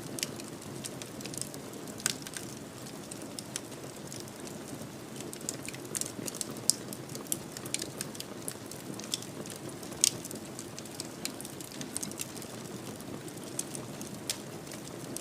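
Wood fire crackling in a fireplace: a steady low rush of flames with irregular sharp pops and snaps, several a second, and two louder pops about seven and ten seconds in.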